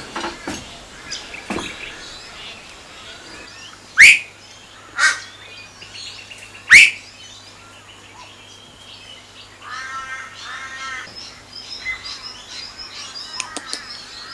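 A mix of wild bird calls and chirps, with three loud calls that sweep upward in pitch about four, five and seven seconds in, and a run of lower, repeated calls around ten seconds in.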